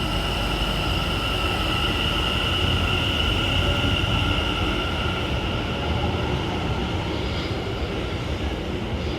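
Class 701 Aventra electric multiple unit passing through the station: a steady rush of wheels on rail with a few high, steady tones over it, holding level throughout.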